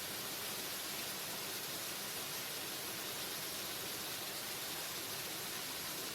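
Waterfall: a steady, even rush of falling water, heavier in the hiss than in the low rumble.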